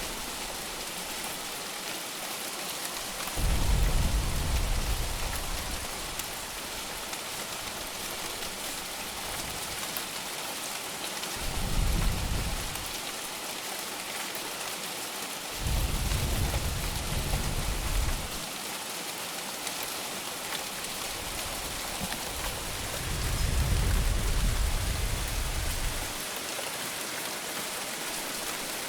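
Heavy rain falling steadily in an even hiss. Four low rumbles of thunder swell and fade under it, the longest about three seconds.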